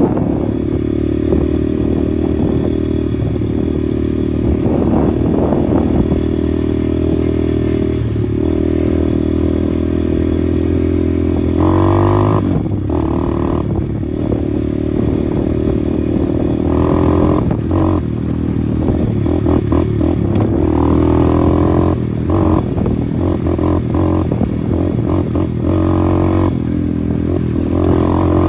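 125 cc pit bike's single-cylinder engine running under way. Its pitch holds steady, then rises about twelve seconds in and goes up and down with the throttle for the rest of the ride.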